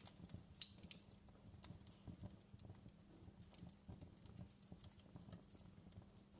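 Faint fireplace crackling: scattered small pops and snaps, several a second, over a low steady hum.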